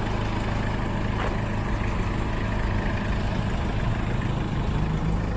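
1990 Toyota Townace truck's naturally aspirated 2C four-cylinder diesel engine idling steadily.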